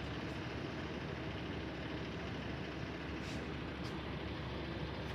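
Steady low vehicle noise outdoors, with two faint brief hisses a little past the middle.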